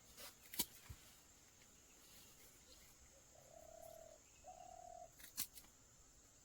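A bird calls twice, two short level notes a little apart with the second slightly higher, over a steady high thin whine, with a few faint clicks near the start and just after the calls.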